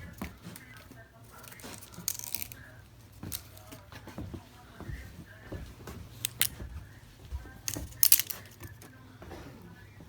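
Scattered sharp clicks and rustles of small objects being handled, over a low steady hum; the loudest clicks come about two, six and eight seconds in.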